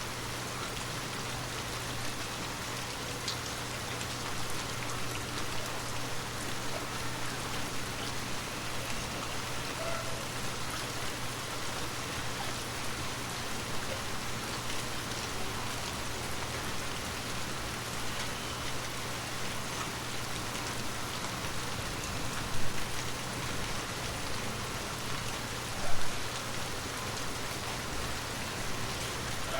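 Heavy rain falling steadily, a dense even hiss with individual drops ticking through it. Two louder taps come near the end, a few seconds apart.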